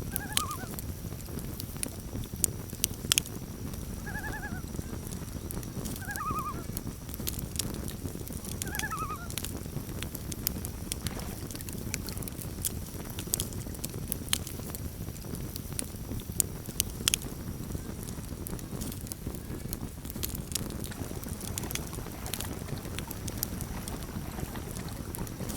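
Campfire crackling: sharp pops scattered over a steady low rush of the fire. Four short bird calls sound in the first ten seconds.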